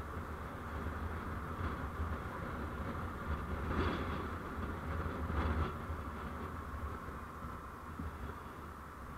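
Steady rumble and road noise of a moving vehicle, with two brief louder swells a second and a half apart near the middle, easing off slightly toward the end.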